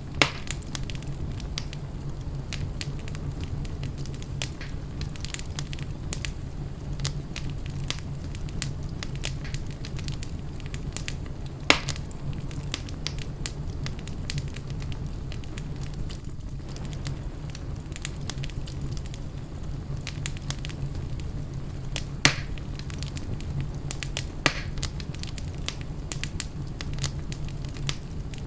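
Wood fire in a fireplace burning steadily with a low rumble, crackling throughout, and a few louder pops: one about 12 s in, one about 22 s in.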